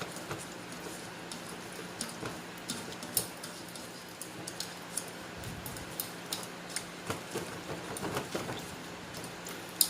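A spoon stirring a soy sauce and vinegar marinade in a bowl to dissolve the sugar, with irregular light clinks and taps against the bowl. A faint steady hum runs underneath.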